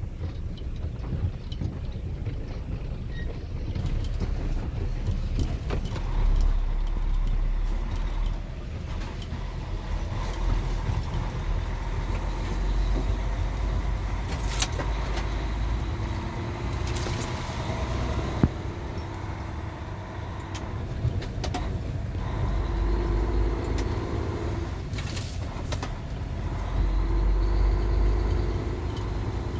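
Truck running on the road: a steady low engine and road rumble that swells several times, with a faint whine and a few short clicks and knocks.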